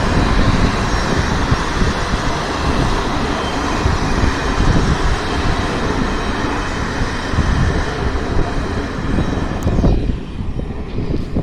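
Train rolling past as it enters the station, a steady rumble and rush of wheels on rails that thins out abruptly about ten seconds in.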